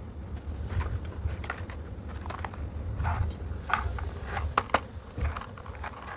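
Small plastic toy pieces clicking and clacking as they are handled, a dozen or so light knocks at irregular intervals over a low rumble of handling noise.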